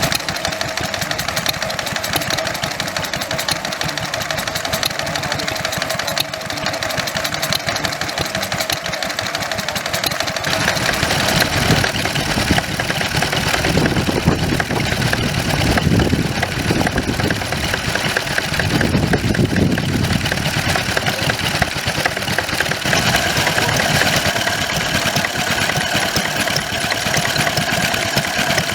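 Vintage stationary engines running steadily with a fast, even beat. The sound changes about a third of the way through as a different engine comes to the fore.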